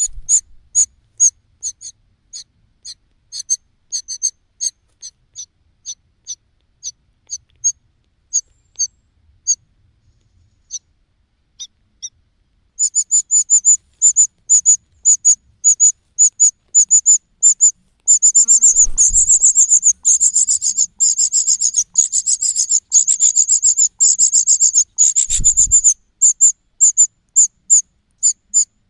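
Common cuckoo chick begging with short, very high-pitched cheeps, spaced out at first and then speeding up into a fast, almost unbroken stream about halfway through. Two low thumps come in the second half.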